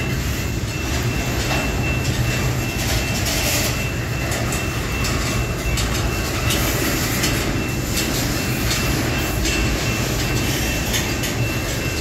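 Heavily loaded CSX freight cars carrying steel slabs rolling past: a steady low rumble of wheels and car bodies, with irregular clicks and knocks of the wheels on the rails.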